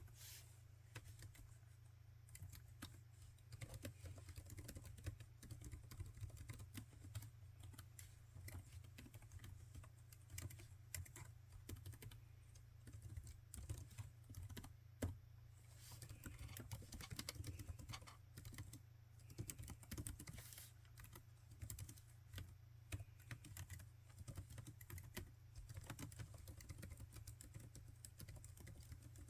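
Laptop keyboard being typed on steadily, a fast irregular run of soft key clicks with short pauses, over a steady low hum.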